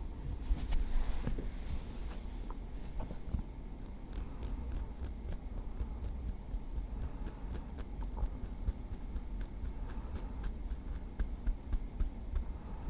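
Small wooden stick tapping lightly: quick, irregular clicks, several a second, with a few louder taps near the end, over a steady low rumble.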